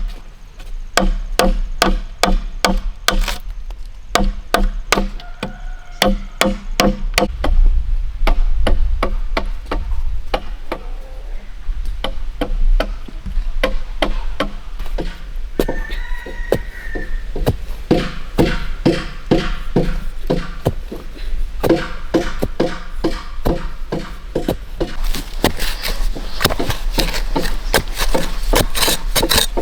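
Bamboo being chopped with a blade: a long run of sharp, repeated strikes, two or three a second, sometimes faster.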